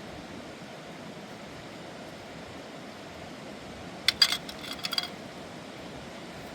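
A quick cluster of light clinks from hard objects, such as dishes or utensils, knocking together about four seconds in, lasting about a second with a brief ring. Under it is a steady hiss.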